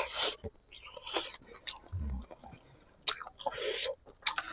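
Close-up chewing and biting on braised pig feet, coming in several separate bursts with a low thump about halfway through.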